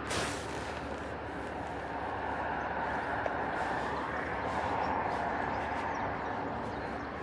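Outdoor traffic noise: a road vehicle passing, its noise swelling to a peak about five seconds in and fading again, with a short thump right at the start.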